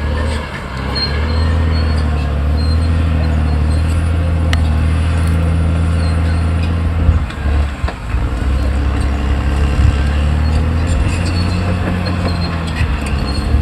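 Caterpillar D6R XL bulldozer's diesel engine running steadily while the machine works, with a short dip in level about seven to eight seconds in.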